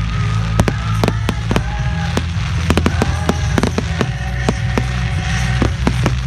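Fireworks going off in quick succession: many sharp bangs and cracks, some close together. Music plays underneath.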